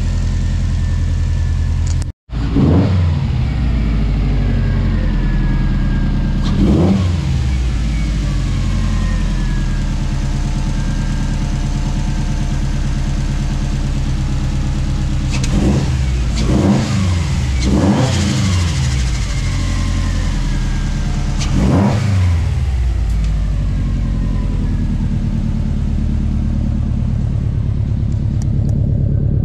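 Turbocharged Subaru flat-four (boxer) engine idling steadily, with about half a dozen quick throttle blips that rise and fall in pitch, most of them bunched in the middle stretch.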